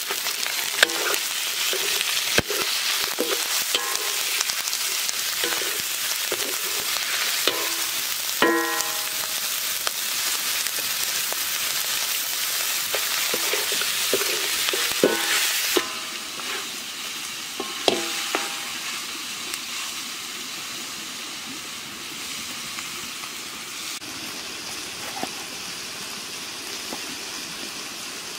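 Chicken frying in a metal wok: a steady sizzle, with several ringing metallic clanks as it is stirred against the pan. About 16 seconds in, the sound drops to a quieter, steady sizzling hiss.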